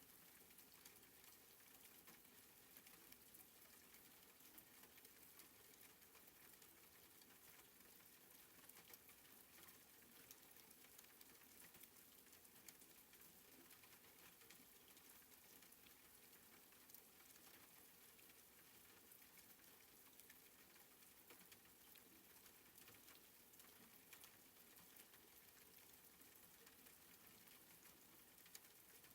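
Faint soft rain: a steady hiss sprinkled with many small drop ticks.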